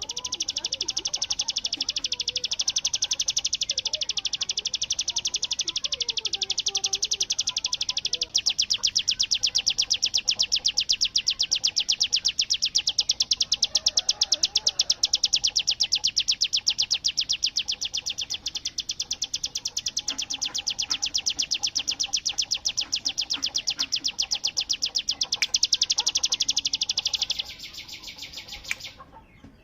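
Ciblek gunung (a prinia) singing its 'bren' song: a long, very fast machine-gun trill of high, evenly repeated notes. It weakens about 27 seconds in and breaks off just before the end, with faint chirps of other birds underneath.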